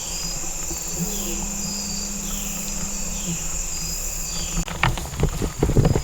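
Chorus of insects in the evening: a steady high-pitched buzz with a softer chirp repeating about once a second. A low hum sounds for about two seconds, and short rustles and knocks come near the end.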